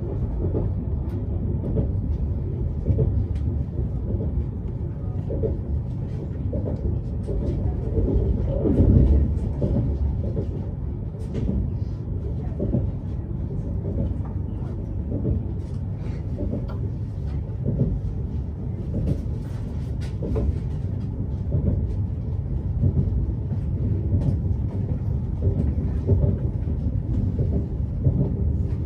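Steady low rumble of an MCC Lastochka (Siemens Desiro RUS) electric train running along the line, heard from inside the carriage, with scattered light knocks and rattles. It swells a little about nine seconds in.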